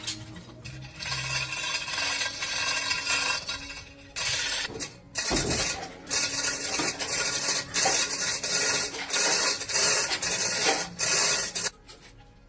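Rasping, scraping strokes of abrasive work on a metal part, such as sanding or filing, in long runs with short breaks about four and five seconds in.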